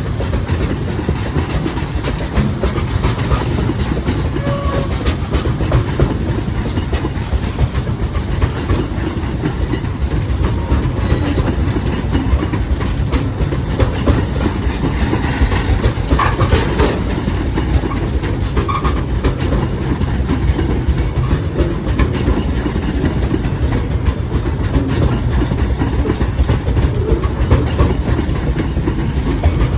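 Loaded freight train rolling past, a steady heavy rumble with the wagons' wheels clicking rapidly over the rail joints. A short higher-pitched scrape stands out about halfway through.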